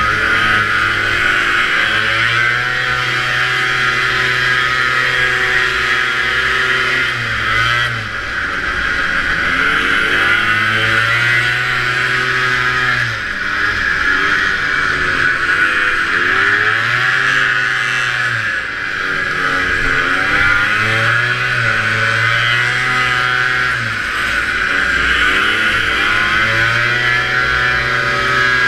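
Vintage two-stroke racing snowmobile engine at high revs, its pitch dropping and climbing again every five to six seconds as the throttle is eased and reopened through the laps. A steady high rushing noise runs over it.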